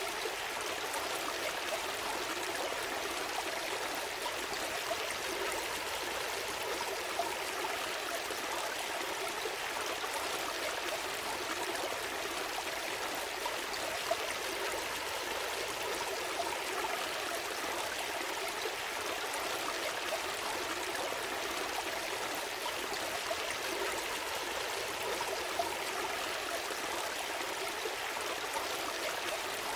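Small stream flowing steadily over stones, a constant rushing with little splashes and drips now and then.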